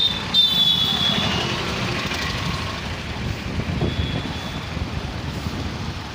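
Motorcycle riding through city traffic: a steady engine and road rumble. Brief high-pitched tones sound about half a second in and again around four seconds in.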